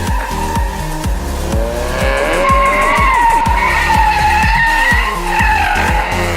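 A car doing donuts: tyres squealing in a long wavering screech while the engine revs hard.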